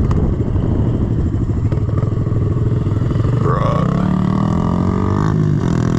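110cc four-stroke single-cylinder pit bike engine running while riding. Its pitch climbs about three and a half seconds in, holds, then drops near the end.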